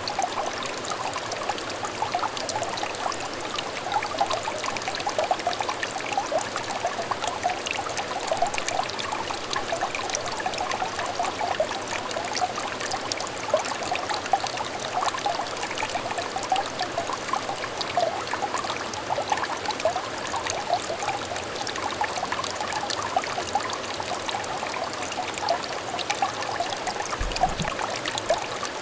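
A small clear stream trickling and babbling over stones: a steady run of water with many small gurgles and splashes, strongest in a bright midrange.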